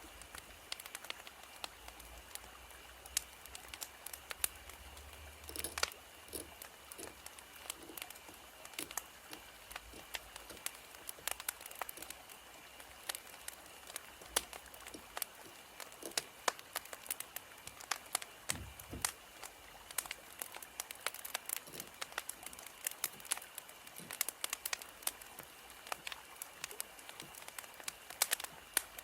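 Wood fire crackling: a steady stream of irregular small pops and snaps over a faint hiss.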